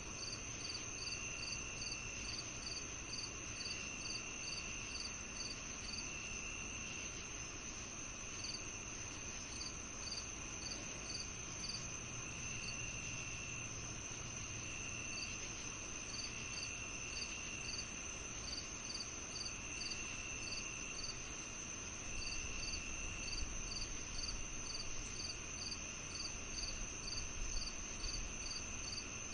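Several crickets and other insects calling together: a steady high trill, regular short chirps about twice a second, and a lower trill coming in bursts of about a second at a time, over a faint low rumble.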